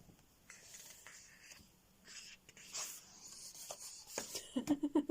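Thick paper pages of a coloring book being handled and turned: a few soft rustles and swishes of paper sliding over paper.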